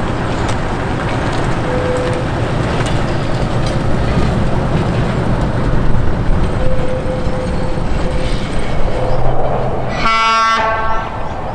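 Vintage railway carriages rolling past, their wheels rumbling and clicking on the rails with a faint intermittent wheel squeal. About ten seconds in, a diesel locomotive's horn gives one short blast.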